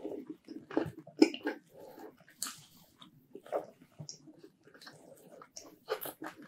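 Close-miked mouth sounds of a person biting and chewing a piece of pizza topped with mint-chocolate ice cream: irregular smacks and clicks.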